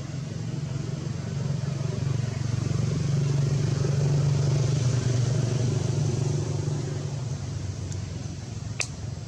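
A vehicle engine droning low and steady, growing louder toward the middle and then fading as it passes. One sharp click near the end.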